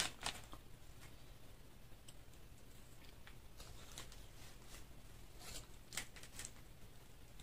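Faint, scattered crisp crackles and clicks of a fried chicken wing being bitten and chewed, with the sharpest click right at the start.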